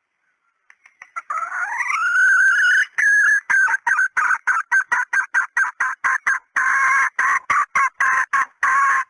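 Female red junglefowl hen calling. A drawn-out rising note is followed by a fast run of clucks, about three to four a second. This is the hen call used as a decoy to draw in wild junglefowl.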